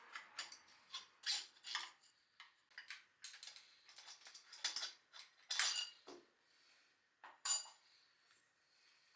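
Irregular metallic clinks and clatter of hand tools and small metal parts being handled, a dozen or so sharp knocks spread unevenly over several seconds.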